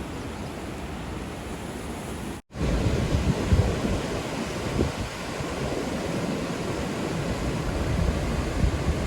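Steady rushing noise of river water at a weir, with wind buffeting the microphone. It cuts out for an instant about two and a half seconds in, then comes back louder, with an uneven low rumble.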